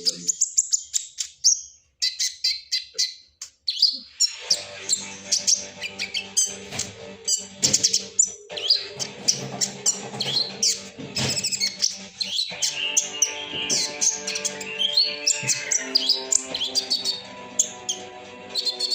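Olive-backed sunbird (kolibri ninja) twittering in rapid high chirps, the fast chattering 'ngriwik' song used as a lure recording to set other sunbirds singing. A short pause comes about two seconds in, and from about four seconds in a steady layer of held low tones runs under the chirps.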